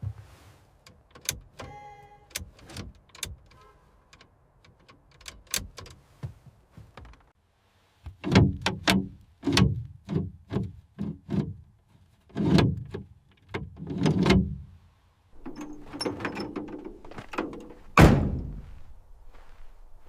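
Clunks and knocks of metal on a rusted old truck being handled: scattered light knocks, a short creak about two seconds in, a run of heavier knocks in the middle, and one loud heavy thud near the end.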